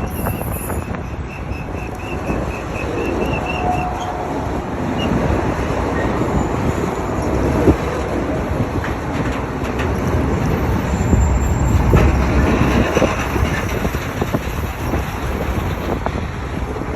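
Freight cars rolling past on the rails: a steady, loud rumble of wheels and couplings, with brief wheel squeals now and then.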